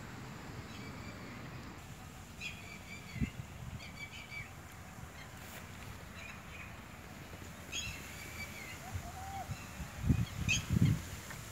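Small birds chirping in short, repeated calls over faint outdoor background noise, with a few low bumps near the end.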